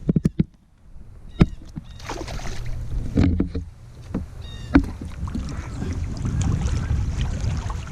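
Sharp knocks and clatter of handling and gear on a kayak: a quick run of clicks at the start, then single knocks spread through, over a steady low rumble of wind on the microphone.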